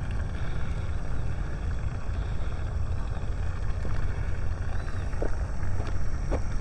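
Steady low rumble with a rushing haze: water being pumped into a pond.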